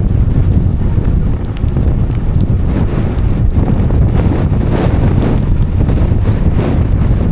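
Wind buffeting the microphone on a moving bicycle: a loud, steady low rumble that swells in gusts, strongest from about halfway through.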